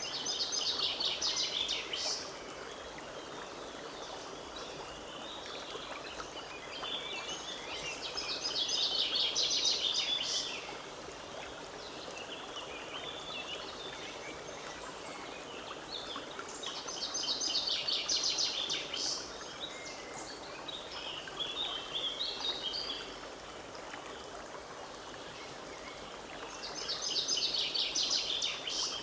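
Forest stream running steadily, with a songbird singing the same short song phrase of two to three seconds about five times, roughly every nine seconds. The song phrases are louder than the water.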